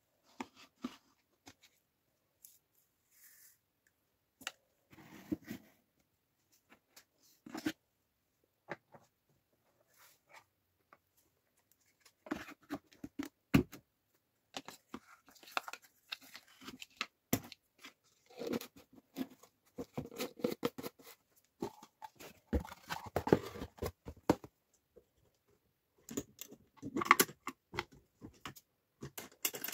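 Irregular rustling, scraping and sharp clicks of hands at work in a small room, in bursts with short silent gaps that grow busier about halfway through: handling noise from loading laundry and detergent into a front-loading washing machine.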